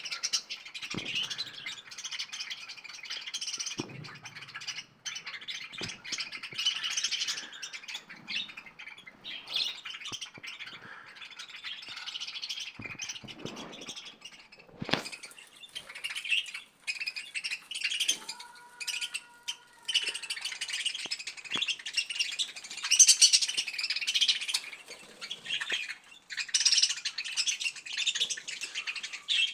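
Small pet parrots chirping and chattering continuously, with occasional louder squawks and light clicks. A brief steady two-note tone sounds about two-thirds of the way through.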